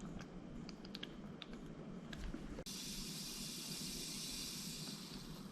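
AeroPress coffee maker being pressed: a few faint ticks, then, a little over halfway, a steady hiss starts suddenly as air is forced through the filter and coffee grounds, the sign that the brew has been pushed all the way through.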